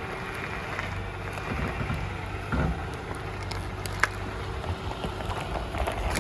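Car engine idling steadily, with a low wind rumble on the microphone and a single sharp click about four seconds in.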